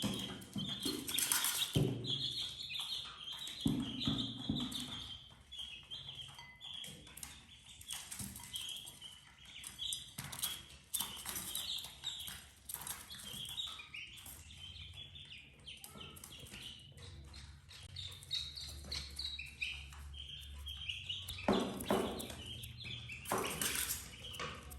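Baby chicks peeping over and over in short high chirps, with scattered knocks and scuffles.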